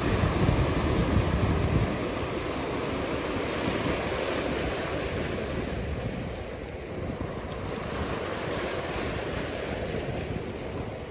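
Ocean surf breaking and washing in, with wind buffeting the microphone; a heavier low rumble in the first two seconds, then a steadier wash.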